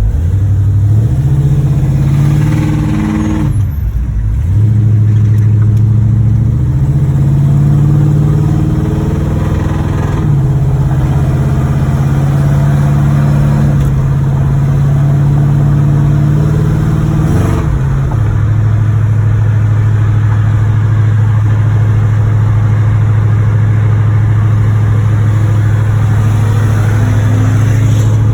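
1986 Chevrolet Monte Carlo SS's 305 V8, an engine with a rod knock in its bottom end, pulling the car along. Its pitch climbs and drops back at gear changes about four, ten and eighteen seconds in, then holds steady at cruise.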